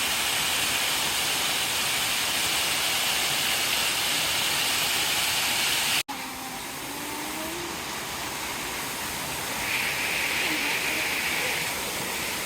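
Waterfall close by, a steady loud rush of falling water. About halfway through it cuts out for an instant and comes back quieter and more distant.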